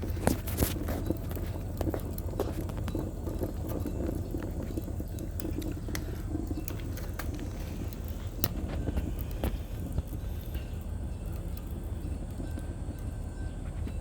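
Wood fire crackling in a homemade brazier, with scattered sharp pops over a steady low rumble.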